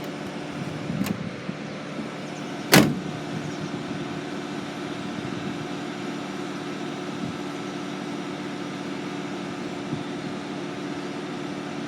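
Truck's diesel engine idling steadily, with one loud, sharp knock about three seconds in and a few faint clicks before it.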